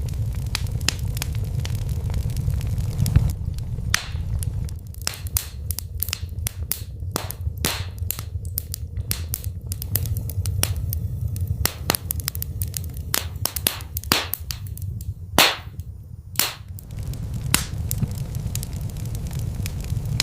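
Wood fire crackling in a fireplace: irregular sharp pops and snaps over a low steady rumble of the flames, with a few louder pops among them.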